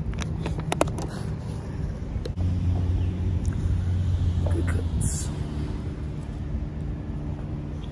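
A vehicle engine idling with a low, steady rumble that swells for a couple of seconds about a third of the way in. A few light clicks come in the first second.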